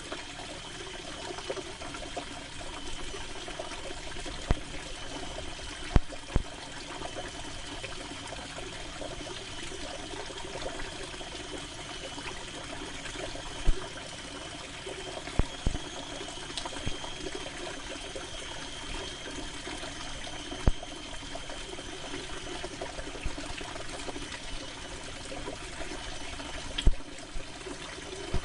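Steady rain falling on canvas, with a scattering of sharper, louder taps now and then.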